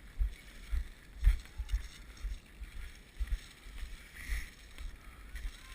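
Irregular low thuds and rumble of movement on a body-worn GoPro, likely footsteps as the player walks, with one sharp click about a second in.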